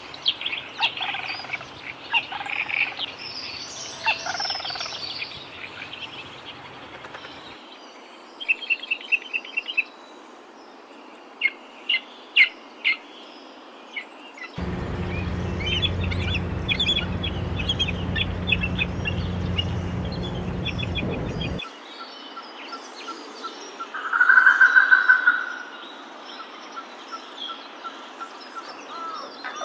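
Birds chirping and calling, with short trills and scattered sharp notes. A low steady hum runs under the calls in the middle, and one loud, held call comes about two-thirds of the way through.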